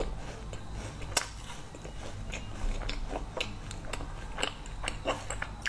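Close-up chewing of a mouthful of frozen ice cream bar, with irregular crisp crunches and small mouth clicks; the sharpest crunch comes about a second in.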